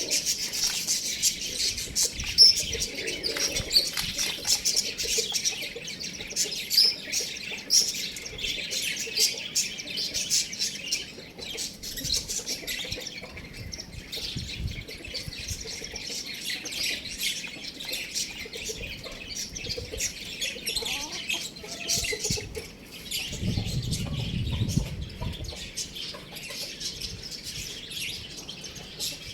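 Many small birds chirping and chattering densely, busiest in the first half, with a brief lower-pitched sound near the end.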